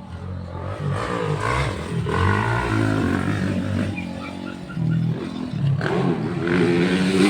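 Motocross dirt bike engines revving, their pitch rising and falling, getting louder near the end.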